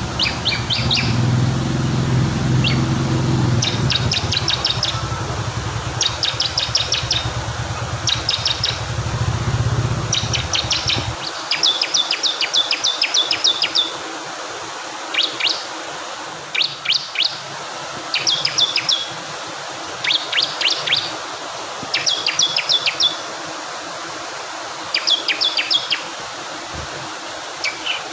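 Bar-winged prinia (ciblek kristal) singing short bursts of rapid high notes, about one burst every two seconds, over a steady rush of flowing water. A low rumble underneath cuts off abruptly about eleven seconds in.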